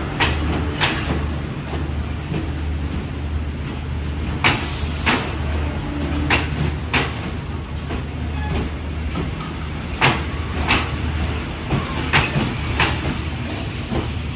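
Passenger train rolling slowly through the station, its wheels clicking over rail joints in pairs every few seconds, over the steady low hum of a diesel locomotive engine. A brief high squeal comes about four and a half seconds in.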